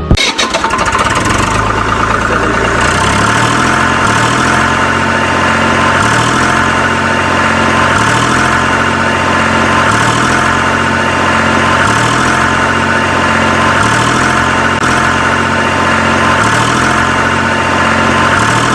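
Steady motor or engine running, with a low, stepped pattern that repeats about every two seconds.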